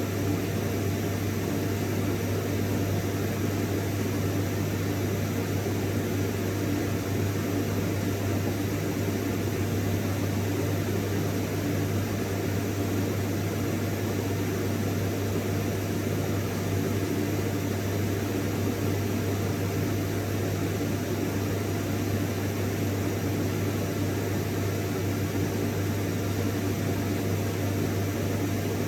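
Vacuum cleaner running steadily: a low motor hum and a faint steady whine under the even hiss of rushing air, with no change in pitch or level.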